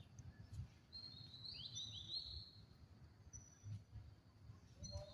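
Faint high-pitched chirps from an animal, a quick cluster of short whistle-like calls with downward slides about a second in and one more near the end, over a low rumble.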